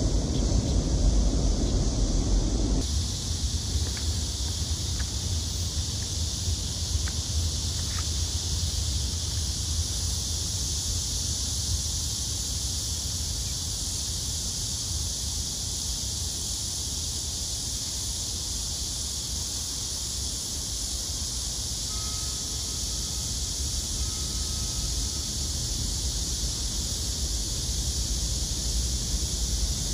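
Steady hiss of heavy rain, with wind buffeting the microphone in a low rumble that is heaviest for the first few seconds. A few faint ticks sound early on.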